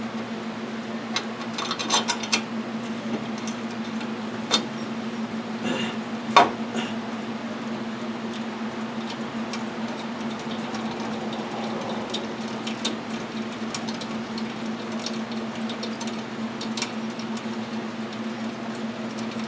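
Scattered metal clicks and taps from handling tools and mower parts, sharpest in the first seven seconds and sparser later, over a steady low hum.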